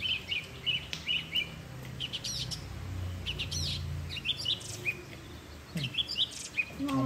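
Small birds chirping: a busy run of short, high chirps with a few rising-and-falling whistled notes.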